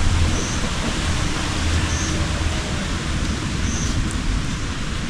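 Steady hissing noise with a low rumble underneath, and a faint short high chirp repeating about every second and a half.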